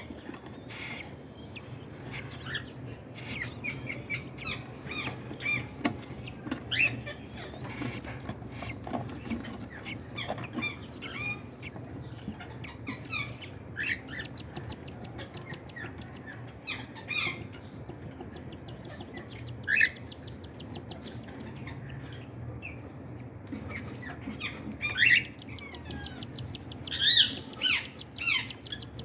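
Cockatiels calling during chick feeding: short squeaky chirps scattered throughout, with a few louder calls near the end, over a low steady hum.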